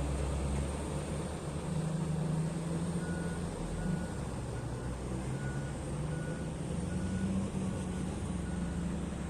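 Heavy mining machine's diesel engine running steadily, with its reversing alarm starting to beep about three seconds in, about two short beeps a second: the machine is backing up.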